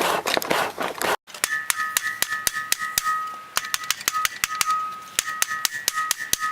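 A hammer striking hot rebar on an anvil in quick repeated blows, several a second, the anvil ringing with a clear high tone after each strike. For about the first second, before the hammering, a dense rushing noise cuts off abruptly.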